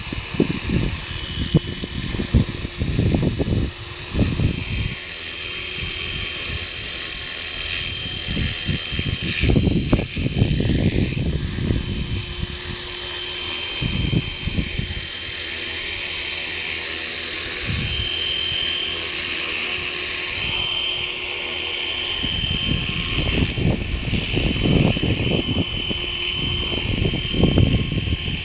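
E-Razor 450 RC helicopter hovering, its motor and rotor giving a steady high whine, with strong wind buffeting the microphone in irregular low rumbling gusts.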